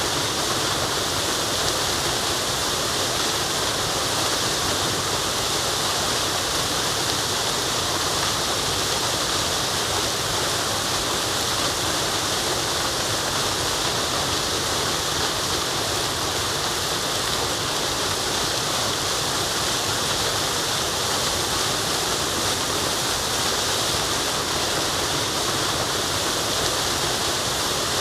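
Waterfall: a steady, unbroken rush of falling water, bright and hissy with no single splashes standing out.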